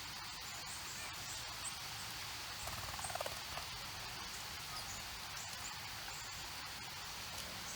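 Outdoor nature ambience: faint, short high bird chirps scattered throughout over a steady high-pitched drone, with one short descending call about three seconds in.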